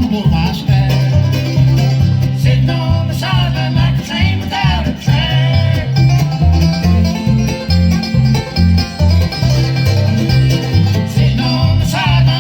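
Bluegrass band playing live, with banjo and guitar to the fore over a steady pulse of low bass notes.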